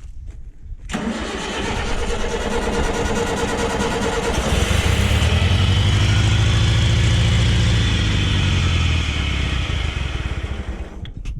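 Satoh S650G tractor engine cold-started on choke: the starter cranks from about a second in, the engine catches about four seconds later and runs loudly, then cuts out near the end. It is a hard start.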